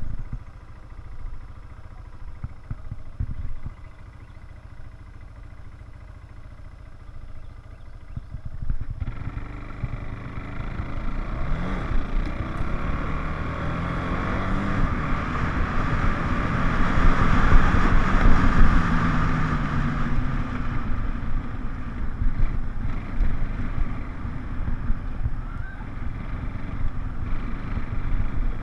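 Four-wheeler (ATV) engine picks up about a third of the way in. Its pitch rises and falls as it speeds up and slows, it is loudest about two-thirds of the way through, and then it eases back. Wind rumbles on the microphone.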